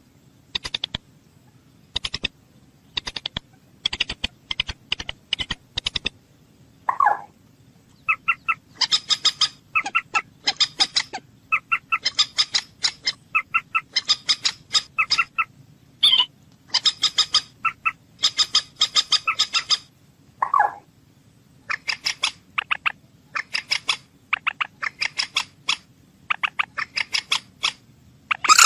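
Common moorhen calling: rapid runs of short, sharp clicking and clucking notes in bursts, broken by an occasional lower, longer call note.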